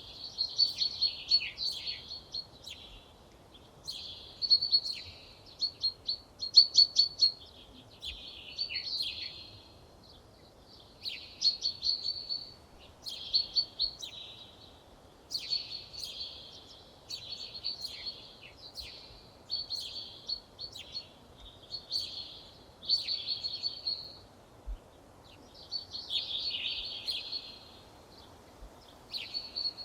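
A songbird singing short phrases of rapid high notes, one phrase every second or two, over a faint steady background noise.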